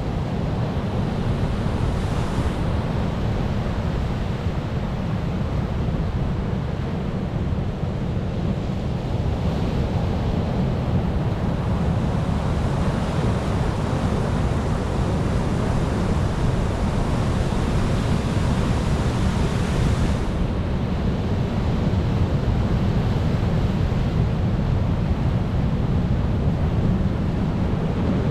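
Ocean surf: waves breaking and washing in without pause over a heavy low rumble. A longer wash of surf builds from about twelve seconds in and cuts off suddenly about eight seconds later.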